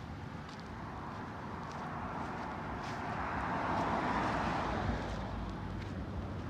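A road vehicle passing by: tyre and road noise that swells to a peak about four seconds in, then eases off.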